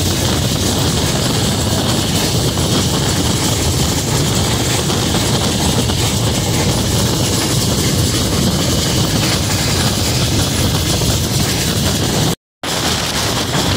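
Steady rush of wind and running noise from a passenger train coach at speed, picked up with the phone held out beside the coach side, with the wheels rumbling on the track. The sound cuts out for a moment near the end.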